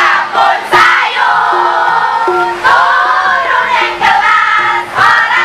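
A group of voices singing together over music, with short notes repeating at a regular pace underneath.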